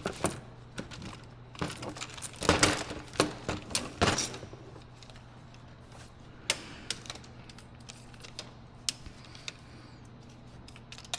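Scattered clicks, taps and light rattles of a car door latch actuator and its parts being handled and worked by hand. They come thick for the first four seconds or so, then only a few isolated clicks follow.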